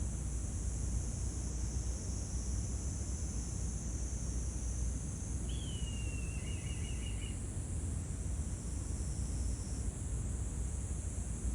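Steady outdoor ambience: a low rumble under an even high insect hiss. About five and a half seconds in, a bird gives one short call, a falling whistle that runs into a quick rattling string of about six notes.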